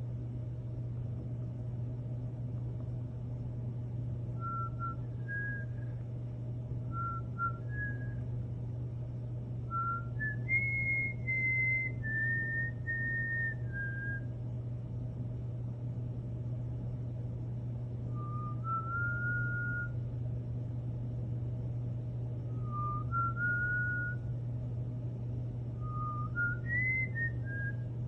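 Cockatiel whistling several short phrases of clear notes that step up and down in pitch, with pauses between phrases. A steady low hum runs underneath.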